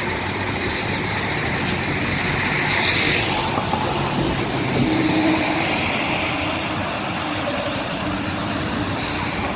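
Steady noise of a motor vehicle running and moving, engine and tyres blending into an even rumble and hiss.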